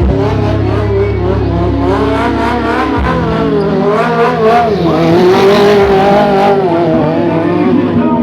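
Motorcycle engines revving hard, their pitch rising and falling over and over with repeated throttle blips.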